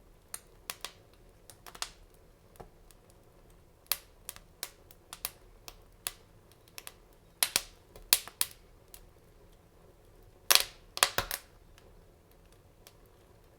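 Fire crackling in a fireplace: irregular sharp pops and snaps, with the loudest cluster about three quarters of the way through.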